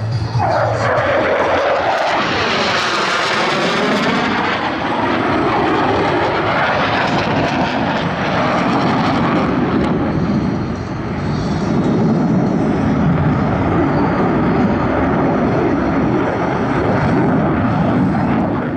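Blue Angels F/A-18 Hornet jets flying overhead: loud continuous jet noise with a sweeping, phasing whoosh in the first few seconds, dipping briefly about eleven seconds in before building again.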